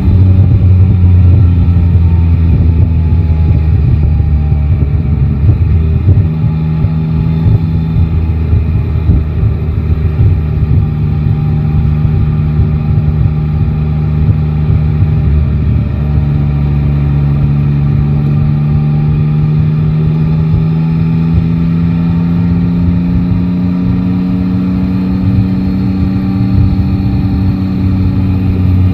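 Yamaha Tracer 9 GT's inline-three engine under way at a steady cruise. About halfway through its pitch drops sharply, as on an upshift, then rises slowly as the bike accelerates.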